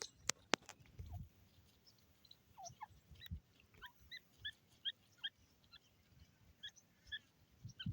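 Faint, short bird chirps repeating irregularly over the last five seconds, after two sharp clicks near the start.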